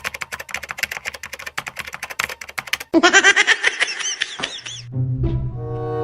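Rapid clicking like typing for about three seconds, cut off suddenly by a quick run of squeaky, rising-and-falling high calls; music with a steady bass line starts near the end.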